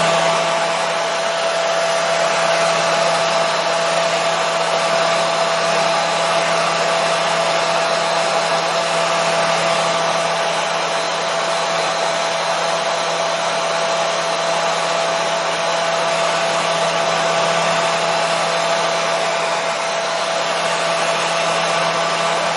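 Hair dryer running steadily on one setting, a constant airy rush with a steady whine in it, used as white noise to lull a baby to sleep.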